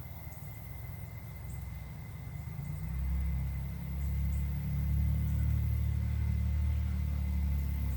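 A low rumble that swells about three seconds in, holds steady, and drops away near the end.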